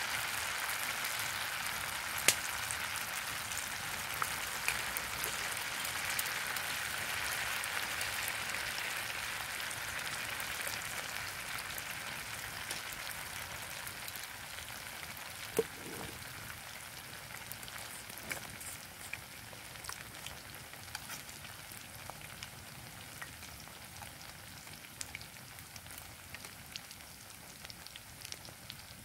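Tofu-and-egg batter frying in hot oil: a steady sizzle that grows gradually quieter, with scattered sharp pops, the loudest about two seconds in.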